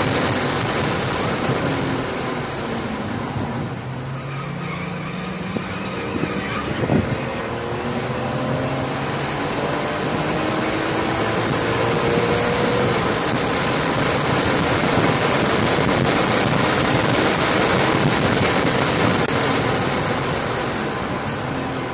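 BMW E46 M3's inline-six at high revs under full throttle, heard from inside the car over loud wind and road noise. The engine note drops off around four seconds in as the car shifts down to third, a brief thump comes about seven seconds in, and then the revs climb again as it accelerates back up through the gears.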